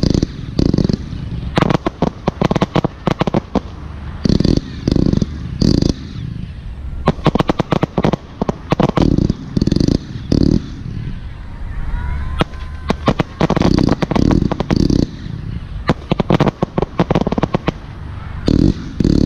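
Aerial firework shells in a large display: a steady run of heavy booms, mixed with clusters of sharp cracks and crackle from bursting shells.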